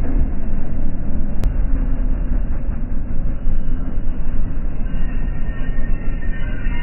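An ATV engine running while riding, a loud steady low rumble. About five seconds in, a few steady higher tones join it.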